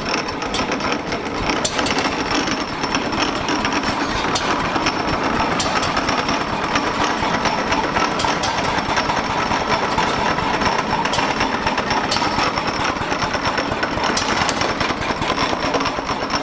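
Ogle patent paraffin oil engine running steadily with a rapid, even mechanical beat, on its first run in over 40 years.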